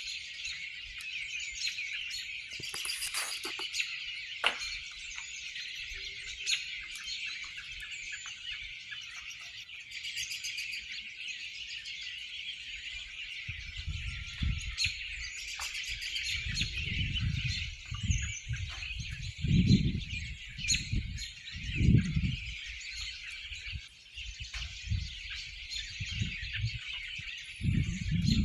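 A large flock of birds chirping continuously as a dense, overlapping chorus. From about halfway through, repeated low rumbles swell in and out, the loudest of them around two-thirds of the way in.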